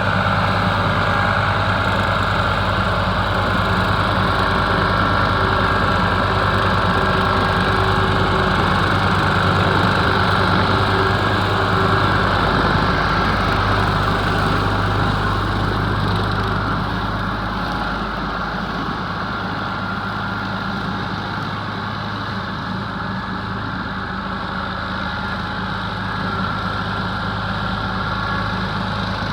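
Ford 4000 tractor's three-cylinder diesel engine running steadily. It eases a little for a stretch past the middle and picks up again near the end.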